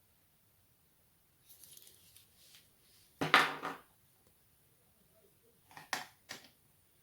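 Small hard laptop parts and tools being handled: light clicks and rustles, a louder clatter a little over three seconds in, and a few short sharp knocks near the end.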